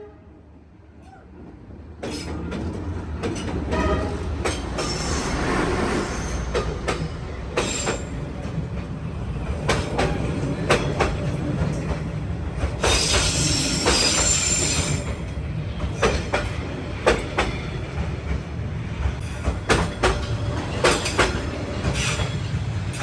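Train passing close by on street-level track: a steady heavy rumble with repeated clicks of wheels over rail joints, starting about two seconds in. A high screech of the wheels for a couple of seconds just past the middle.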